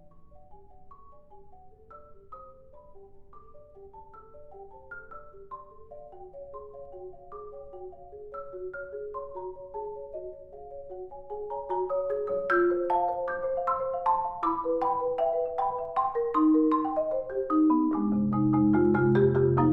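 Solo marimba playing a soft passage of spaced single struck notes that grows louder and denser partway through, with low notes coming in near the end.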